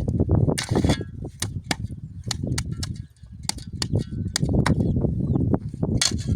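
An irregular series of sharp cracks and knocks, about fifteen in quick succession, over a low rumble.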